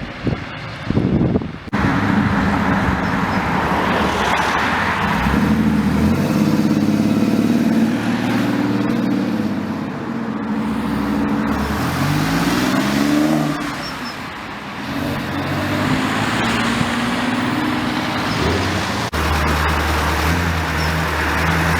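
Modified cars' engines running and accelerating, with the engine note repeatedly rising and falling in pitch as they are revved and driven. A few short, choppy bursts come in the first couple of seconds.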